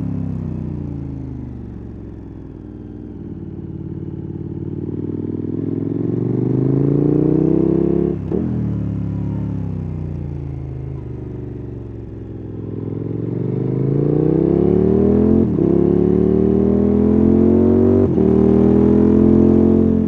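KTM 1290 Super Adventure S V-twin engine and exhaust heard from the rider's seat: revs falling under engine braking, then climbing under acceleration with a brief break at an upshift about eight seconds in. Revs fall again, then climb through two more quick upshifts in the second half.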